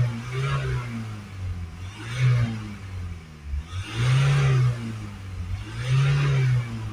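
Ford Transit Custom 2.0 EcoBlue four-cylinder diesel being blipped from idle, rising and falling back four times about two seconds apart, the last two revs held for about a second. The revving comes right after DPF cleaner has been sprayed into its soot-overloaded particulate filter.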